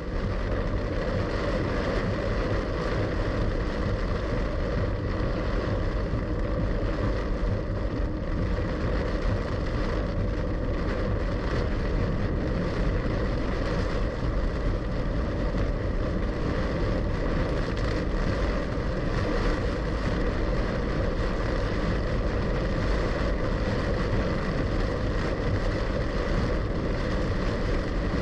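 Heavy rain beating steadily on a moving car, with the tyres hissing through standing water on a flooded road, heard from inside the cabin.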